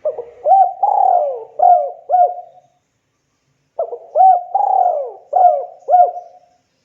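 Spotted dove cooing: two phrases of several gliding coos each, the second starting about a second after the first ends.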